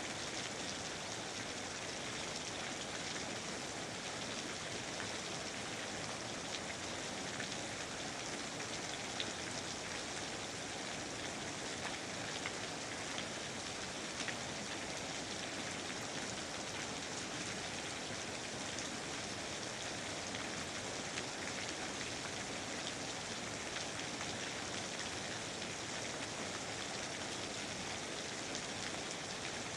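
Steady rain falling and pattering on surfaces, a dense even hiss with many small drop ticks.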